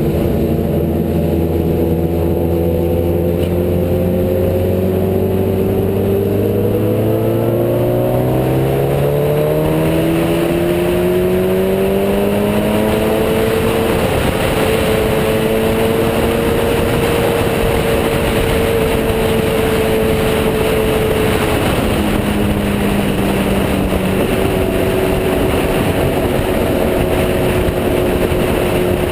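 Sport motorcycle engine pulling up slowly and steadily in revs for about fourteen seconds, holding there, then dropping in pitch twice near the end. A rush of wind noise grows as the speed builds.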